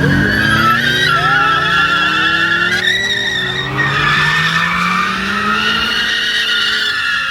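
Car tires squealing continuously against the pavement while the engine revs, its pitch rising slowly, as in a burnout or donut.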